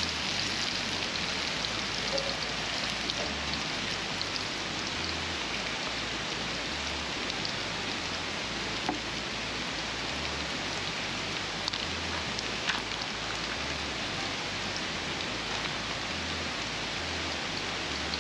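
Onions frying in butter in a pan: a steady sizzle with a few scattered pops.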